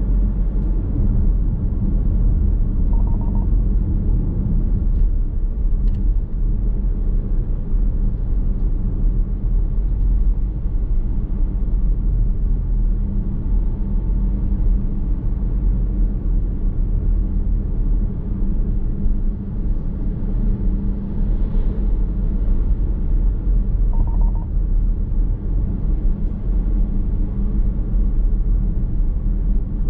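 Steady low rumble of a car's tyres and drivetrain heard from inside the cabin while driving at an even pace. Two faint short tones sound once early on and again near the end.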